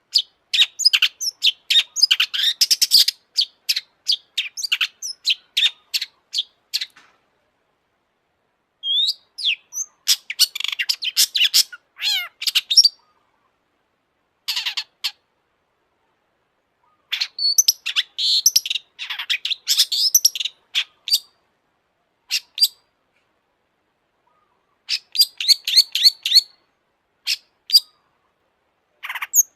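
Long-tailed shrike (cendet) singing in full song: phrases of rapid, sharp chattering notes, broken by silent pauses of a second or two.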